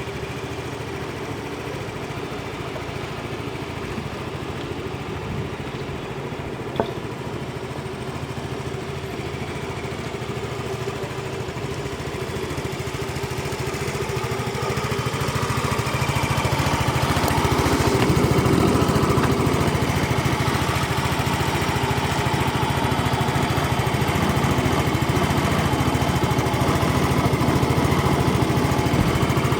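Yamaha XC 115 Delight scooter's single-cylinder four-stroke engine idling steadily, growing louder about halfway through and then holding. A single sharp click sounds about a quarter of the way in.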